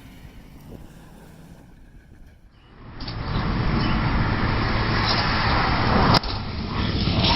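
Car engine and road noise, starting abruptly about two and a half seconds in after a quieter stretch and then running loud and steady, with a sharp click about six seconds in.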